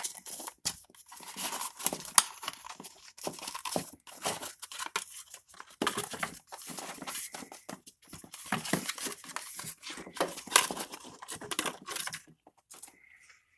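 A rubber timing belt being turned over and flexed in the hands, giving irregular rustling, rubbing and small clicks.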